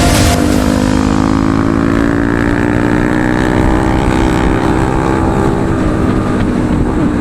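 Motorcycle engine running steadily under way, its pitch drifting slightly up and down.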